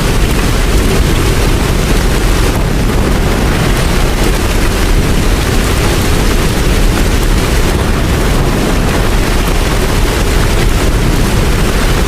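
Heavy rain falling steadily, with a strong low rumble beneath it.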